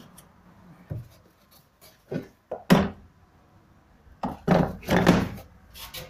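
Knocks and clunks of a vacuum cleaner's casing being handled and opened, with a sharp knock partway through and a louder cluster of clunks and rubbing near the end.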